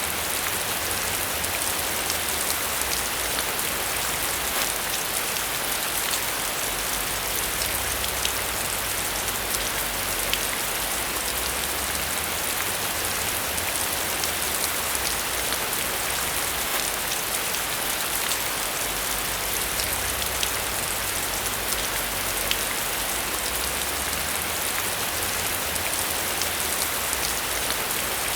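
Steady rain falling on a surface, with a dense patter of individual drops over an even hiss and a faint low rumble underneath that swells and fades slowly.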